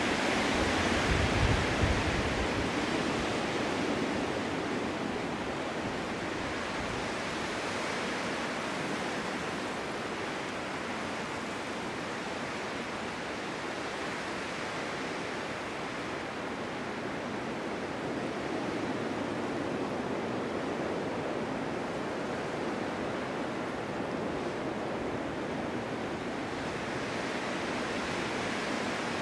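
Snowstorm wind blowing steadily in gusts as an even hiss. A strong gust with a low rumble comes about a second in, then the wind eases and swells again in the second half.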